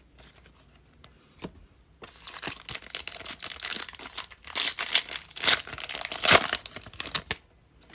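A trading card pack wrapper being torn open and crinkled by hand: a few light clicks, then about five seconds of crackling and tearing, loudest in the middle. It stops shortly before the end.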